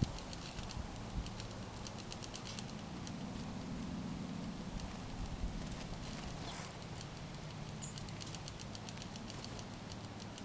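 Birds feeding at a seed feeder: quick runs of light, sharp clicks and taps from pecking, over a steady low hum.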